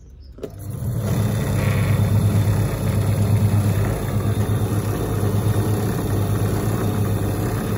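1958 Hoovermatic twin tub's wash motor switched on with a click about half a second in, then running up within half a second to a steady, loud hum with a rough mechanical noise over it. It is not sounding great, which the owner puts down to the worn pump tyre that is due for replacement.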